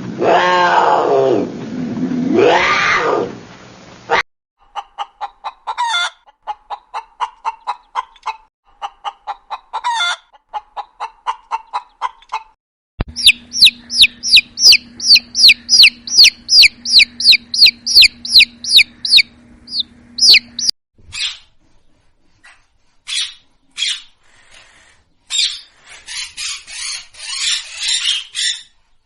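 A sequence of animal calls: a deep, swooping roar for the first four seconds, then runs of rapid, repeated bird calls, clucks and sharp chirps, ending in scattered squawks.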